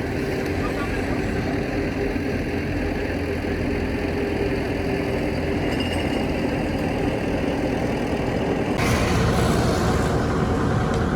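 Heavy-equipment diesel engine running steadily. About nine seconds in, the sound changes abruptly and becomes louder and fuller, with more hiss high up.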